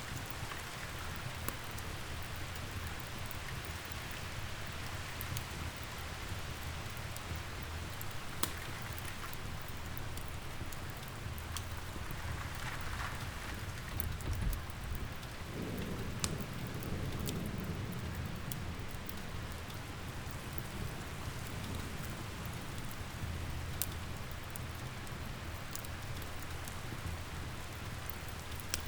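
Steady rain hissing, with the sharp scattered crackles and pops of a wood fire, and a low roll of thunder about halfway through.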